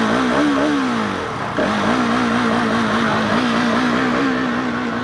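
Motorcycle engine revved high and held for a burnout, its pitch wavering. The revs rise, fall away about a second in, then come back up about a second and a half in and stay held.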